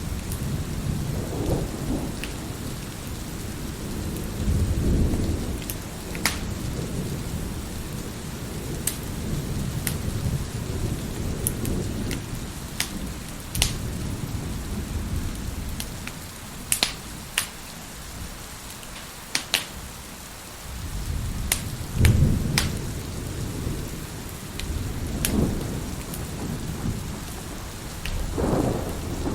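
A wood fire crackling with scattered sharp pops, over steady rain and low rolls of thunder. The thunder rumbles at the start, again about two-thirds of the way through, and near the end, with a calmer stretch between.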